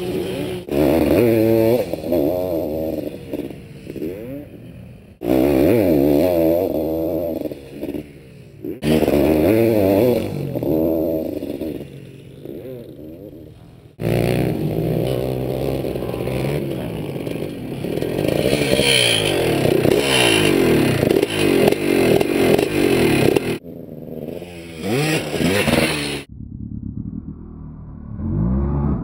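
Honda CR500 single-cylinder two-stroke motocross engine revving hard and falling off as the bike passes, over and over, its pitch rising and dropping with each pass. The passes break off suddenly several times where clips are cut together.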